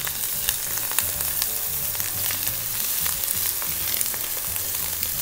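Onion and ginger paste with turmeric, chili powder and salt sizzling in hot oil in a pan, stirred and scraped with a silicone spatula: the spice paste being fried down without any water.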